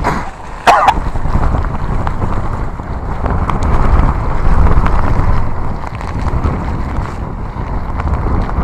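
Typhoon-force wind buffeting the phone's microphone in loud, gusting rumbles, with a brief higher-pitched sound just under a second in.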